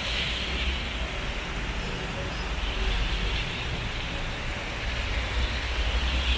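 Road traffic on wet pavement: a steady low rumble with tyre hiss that swells as vehicles pass, about every three seconds.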